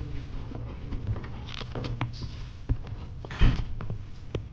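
Scattered clicks and knocks, with one louder knock about three and a half seconds in, over a steady low hum.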